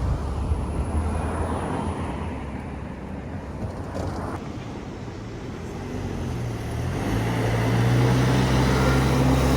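A bus passing close by on the road, its engine hum and road noise easing off. About seven seconds in, another bus's engine comes in with a loud, steady low hum as it draws near.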